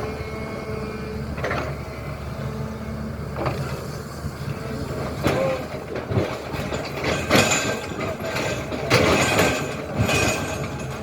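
SANY excavator's diesel engine running steadily, with irregular knocks and scraping from the digging that grow more frequent and louder in the second half.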